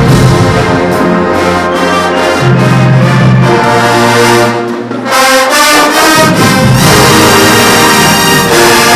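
Marching band playing loudly, its brass section holding sustained chords. The sound dips briefly about five seconds in, then the full band comes back in.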